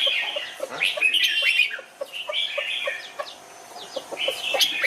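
Red-whiskered bulbul chirping and calling in quick gliding phrases, with short low clucking notes repeating about four times a second under them.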